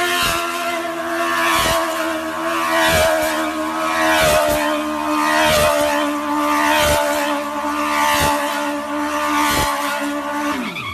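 Vehicle engine running at steady high revs, holding one pitch, with a knock about every second and a half.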